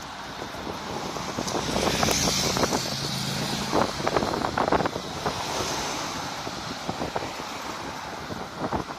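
Street traffic: vehicles passing, one with an engine hum about two seconds in, with wind on the microphone.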